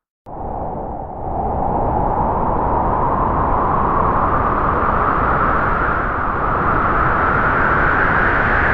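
Spooky Halloween sound effect: a loud, sustained rushing noise that starts suddenly after a brief silence and slowly rises in pitch.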